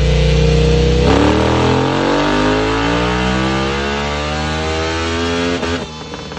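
KTM 890 Duke R parallel-twin engine with a full Akrapovic exhaust on a Dynojet dyno: holding steady revs for about a second, then pulling under full throttle with the pitch climbing steadily for several seconds. Near the end the run is shut off abruptly and the note drops away.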